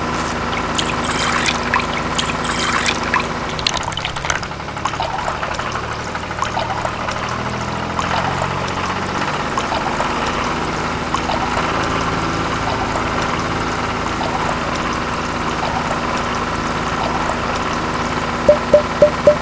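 Small motor running a toy tomato crusher, with a crunching of tomatoes being crushed in the first few seconds. Tomato juice then pours and trickles steadily into a small bucket. A few loud plucked-string notes of music come in right at the end.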